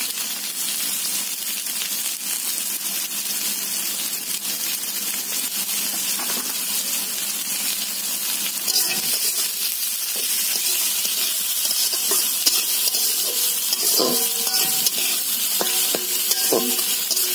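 Onion, green chillies, garlic and cumin sizzling in hot oil in a metal kadai. From about halfway, a spatula stirs them, scraping and clinking against the pan.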